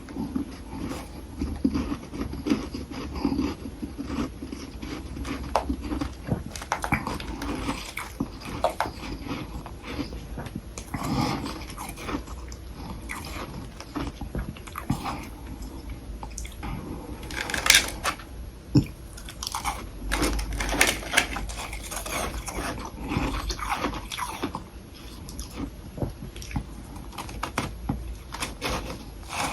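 Close-miked biting and chewing of soft humidifier frost sticks: soft, irregular crunches of packed frost between the teeth, with a louder crunch about eighteen seconds in.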